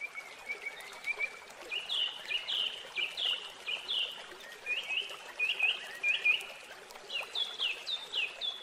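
A songbird singing, with phrases of short, sharp chirps repeated many times over a faint steady hiss.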